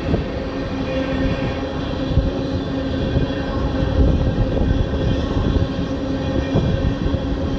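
Loaded crude oil tank cars rolling past: a steady rumble of steel wheels on rail with a steady hum and a few brief knocks.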